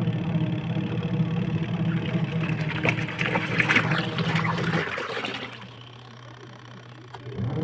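Washing machine motor running with a steady hum over sloshing water, cutting off about two-thirds of the way through and starting up again near the end.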